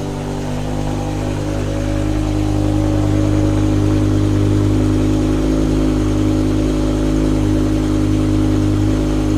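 BMW M5 E60's S85B50 V10 exhaust running at a steady fast idle after a cold start, a deep even drone that grows a little louder over the first few seconds and then holds.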